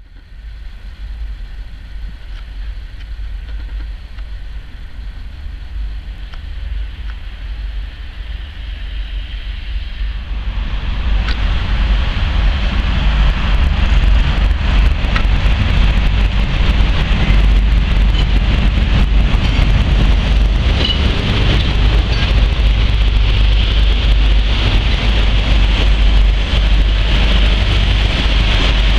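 A freight train hauled by two 3E electric locomotives approaching and running past: a steady low rumble of the train that grows much louder about ten seconds in, then goes on loud with many small clicks and rattles from the wheels and wagons.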